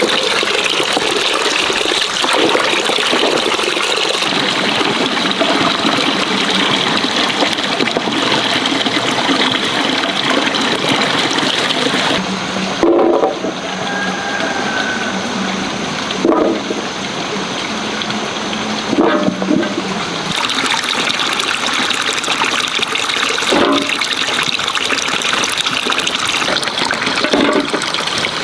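Water running and splashing steadily, with a few short knocks every few seconds.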